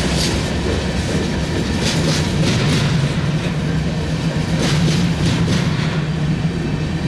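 Freight cars of a passing freight train, tank cars, a gondola and covered hoppers, rolling by. Steel wheels on the rail give a steady rumble, with clattering bursts every second or two as wheel sets cross rail joints.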